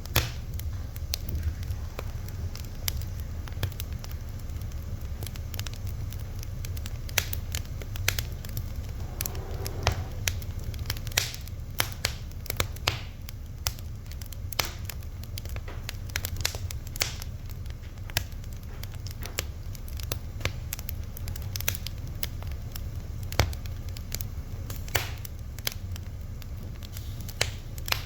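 Fire crackling, with irregular sharp pops and snaps scattered throughout over a steady low rumble, and a faint brief hiss about nine seconds in.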